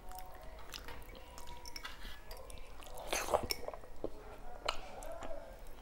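Close-miked chewing and wet mouth sounds of a person eating soft rice by hand, with small clicks of fingers working the rice and a louder burst of smacking about three seconds in as a mouthful goes in.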